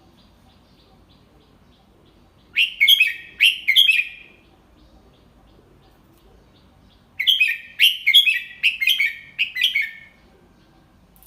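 Red-whiskered bulbul singing: two phrases of quick, clear whistled notes, the second longer than the first, with faint soft chirps before the first phrase.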